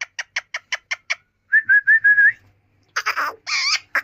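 Indian ringneck parrot making a quick run of about nine clicks, then four short whistled notes, then harsh screechy calls near the end.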